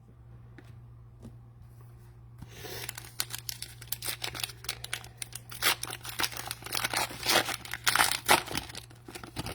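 Cellophane wrapper of a trading card pack being torn open and crinkled. The crackling starts about two and a half seconds in and goes on for most of the rest.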